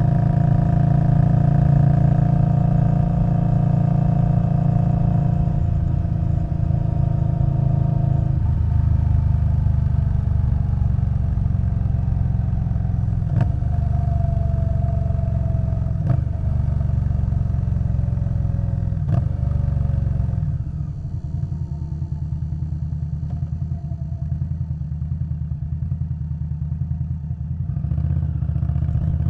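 Indian Scout Bobber Twenty's V-twin engine running through a Vance & Hines Twin Slash exhaust while riding. It pulls steadily with three brief breaks, then eases off to a quieter, lumpy beat about two-thirds in before picking up again near the end.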